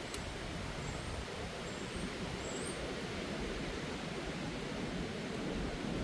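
Steady wind rushing over the microphone, with a bird chirping three short, high, rising notes in the first three seconds.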